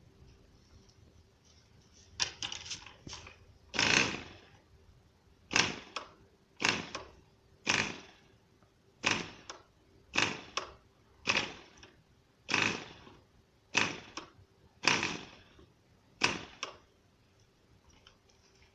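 FORA 2.5 model diesel engine being flicked over by hand at the propeller, about a dozen sharp flicks a little over a second apart, without the engine catching.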